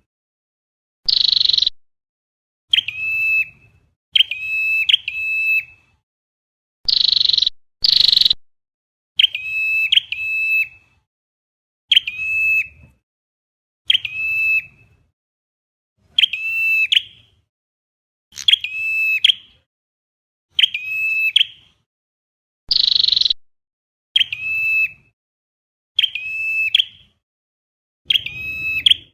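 A recording of flowerpecker calls played in a loop, as used to lure birds into a trap. The calls are sharp, high, ringing notes repeated every second or two, singly or in quick pairs and triples. A few harsher, buzzier notes come in between.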